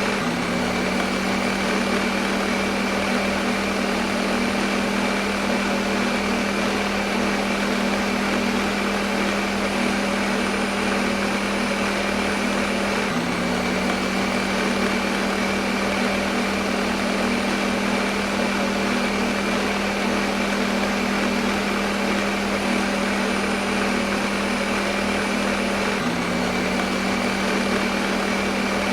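Electric kitchen blender running continuously at a steady speed: an even motor hum under a dense whirring rush, used as white noise for putting a baby to sleep. There is a slight hitch in the hum about every thirteen seconds.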